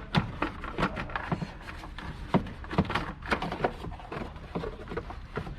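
Irregular clicks and knocks of parts and hands being handled as a radiator hose is fitted back on, several a second, with the sharpest knocks a little past the middle.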